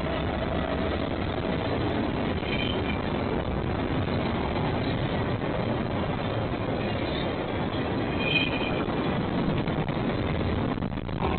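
Train cars rolling past on the rails in a steady, dense rumble and clatter, with brief faint high wheel squeals twice.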